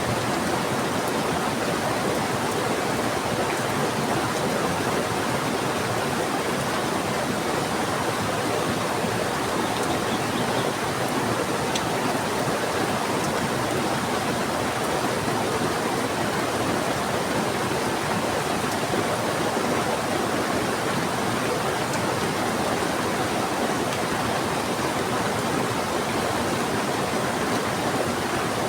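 Steady rush of river water together with heavy rain, an even, unbroken wash of noise.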